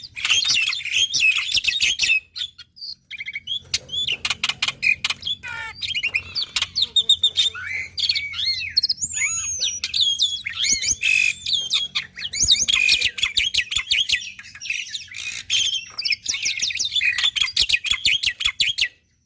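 Black-winged starling (jalak putih) singing a long, fast, varied song of chattering clicks, rising and falling whistles and harsh notes, which stops abruptly near the end.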